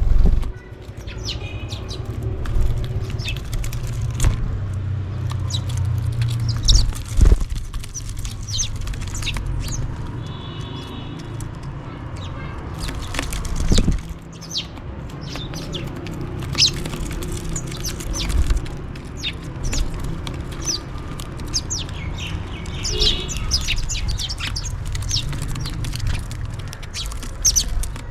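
House sparrows chirping, many short sharp chirps one after another with a few longer harsh call notes, as the birds call for food while feeding. A low steady rumble runs underneath, and two sudden knocks come at about 7 and 14 seconds in.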